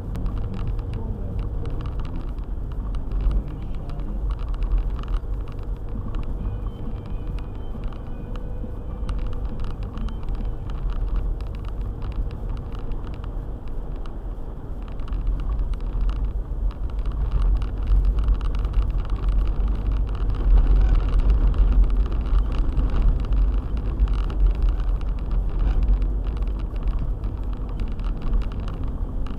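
A four-wheel-drive car on the move, with a steady low engine and road rumble and many small ticks and knocks. The rumble swells louder a little past halfway, then eases off near the end.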